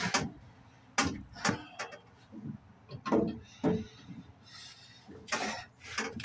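A string of irregular knocks and clunks with some scraping between them, like parts or panels being handled and moved about.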